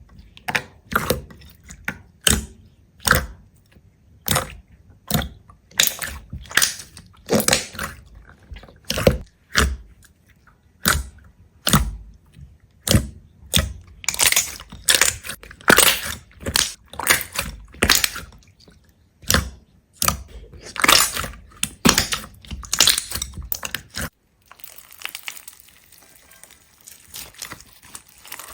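A long run of crisp crunches and cracks, about one or two a second, as of something brittle being crushed or broken over and over; they stop about 24 seconds in and give way to a steady soft hiss.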